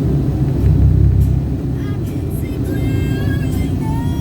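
Low rumble of a moving car, with music playing over it; a melody with bending pitched notes comes in about two seconds in.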